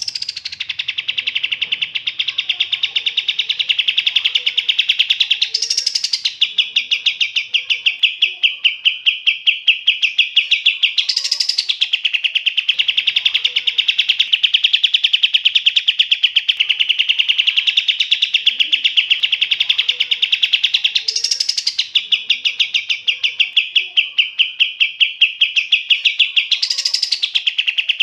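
A songbird giving one long, very fast, unbroken trill, with four short higher-pitched flourishes in it, played as a songbird training recording.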